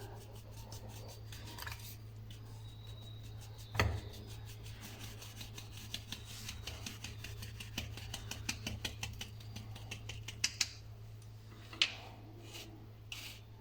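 Mixing utensil scraping and stirring through soft cookie dough in a bowl as flour is worked in, with one sharp knock about four seconds in and a few clicks near the end.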